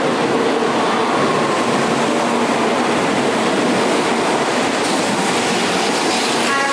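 Shinkansen bullet train beside the platform, giving a steady, loud rushing noise.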